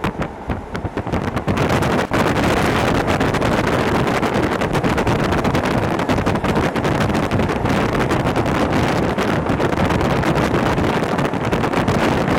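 Hokuso Railway 7260 series train running, heard from inside the carriage: wheel and rail noise that rises sharply about a second and a half in and stays loud, with scattered clicks.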